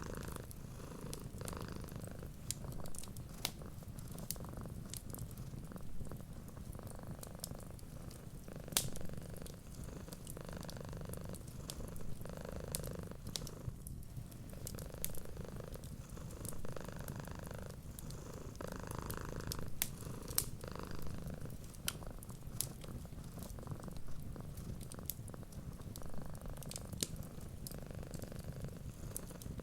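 Domestic cat purring steadily, with the sharp pops and crackles of a wood fire scattered throughout.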